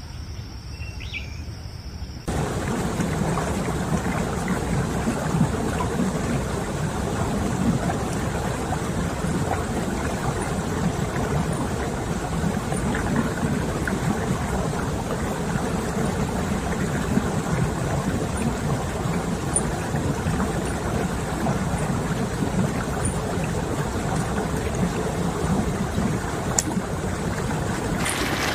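Insects trilling steadily for about two seconds, then an abrupt change to heavy rain falling steadily, a dense even hiss.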